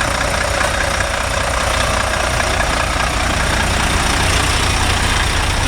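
Heavy truck diesel engines running steadily as a convoy of trucks rolls past at low speed, a continuous deep rumble.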